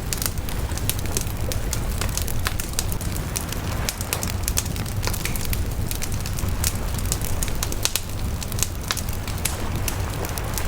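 Wood fire crackling: frequent sharp snaps and pops at irregular intervals over a steady low rumble.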